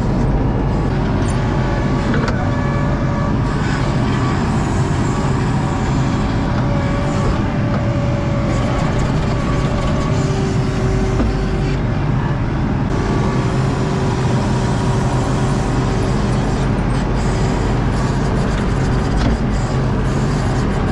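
Diesel engine of an ASV RT-40 compact track loader running steadily under load, with no pauses.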